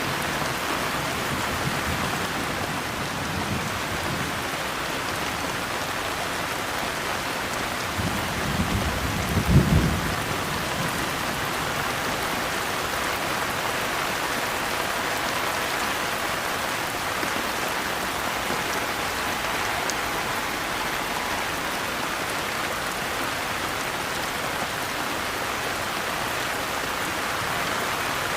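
Steady rain falling, with one short low rumble of thunder about nine seconds in.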